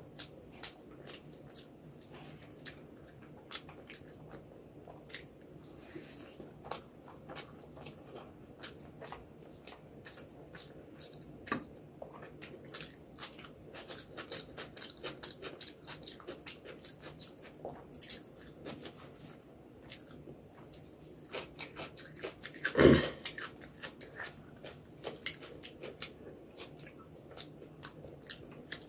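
Close-miked chewing of rice and egg curry eaten by hand, with many short wet mouth clicks throughout and one louder short sound late on.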